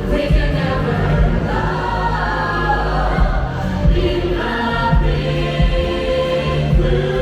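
Choir singing long held notes over orchestral music with a steady bass, played loudly through a theatre's sound system.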